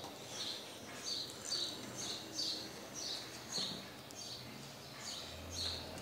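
A small bird chirping over and over, with short high chirps about two a second.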